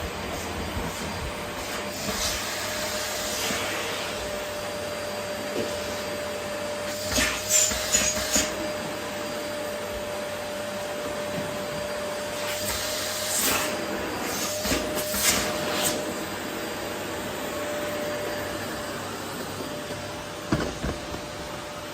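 Vacuum cleaner running steadily with a constant motor whine, vacuuming up rose petals. Short clusters of clicks and rattles come through about seven seconds in, again from about thirteen to sixteen seconds, and once near the end.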